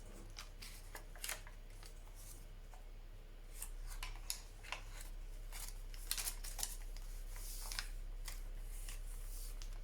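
Paper pages of a handmade junk journal being turned and handled: scattered soft rustles and light taps, over a low steady hum.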